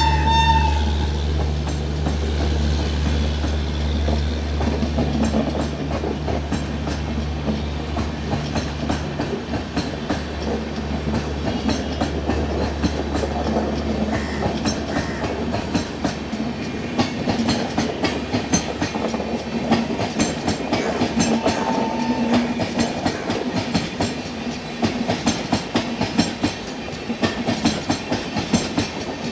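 Express train passing through a station. A short horn blast sounds at the start, and the locomotive's low hum fades over the first ten seconds. The coaches' wheels then clatter over the rail joints, the clicks growing denser toward the end.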